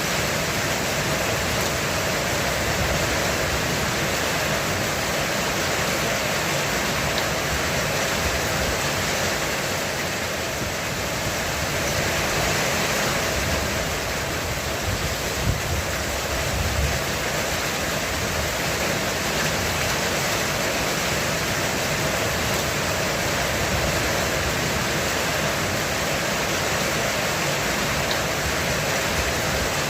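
Heavy rain drumming on a roof: a steady, dense hiss with no break. A brief low rumble comes about halfway through.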